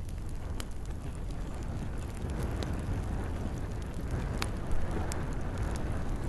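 Campfire crackling, with a few sharp pops scattered among the crackle over a steady low rumble.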